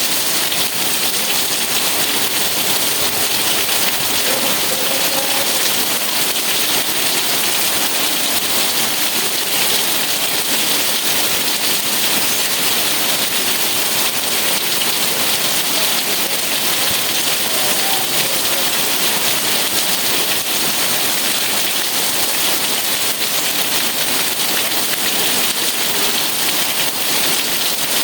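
Steady rain falling, a dense, even hiss that does not change over the stretch.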